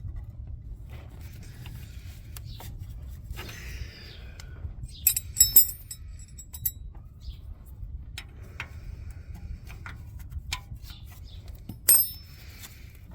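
Metal clinking and rattling as a starter is worked loose under a truck, with a cluster of sharp ringing clinks about five seconds in and another near the end, over a low steady rumble.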